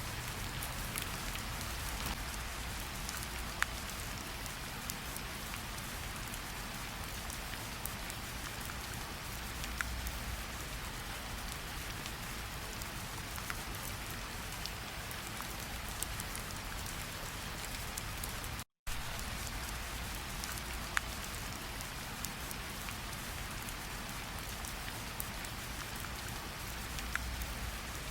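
Steady rain falling, an even hiss with scattered sharp raindrop ticks close by. It cuts out completely for a split second about two-thirds of the way through.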